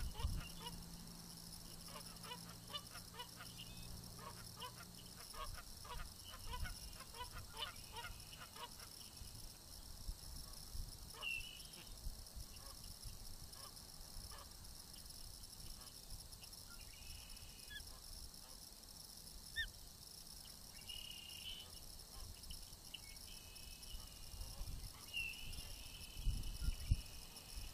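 Birds calling: a quick run of repeated honk-like calls over the first eight seconds or so, then scattered short high chirps.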